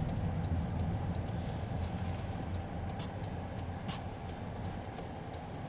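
Car interior noise while driving: a steady low rumble of road and engine noise heard from inside the cabin, with a few faint ticks.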